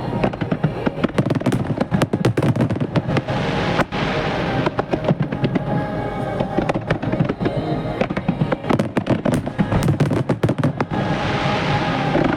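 Dense barrage of aerial firework shells bursting in rapid succession, many sharp cracks and booms crowding together, with swells of crackling hiss about four seconds in and near the end. Music plays alongside the bursts throughout.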